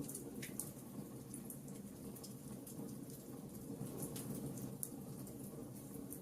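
Fire in a fireplace crackling: frequent small, sharp pops and snaps over a steady low rush of the flames, with a slightly stronger pop about half a second in.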